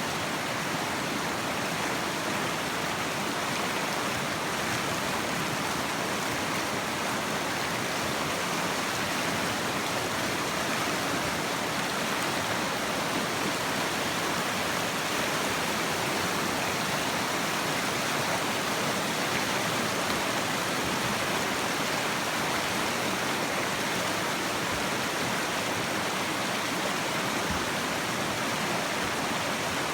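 Whitewater of a class II river rapid rushing steadily.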